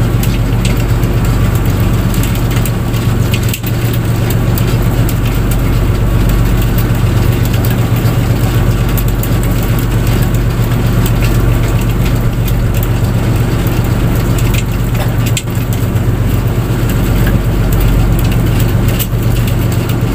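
A fishing boat's engine running steadily with a loud, constant low hum, with scattered small knocks and clicks over it.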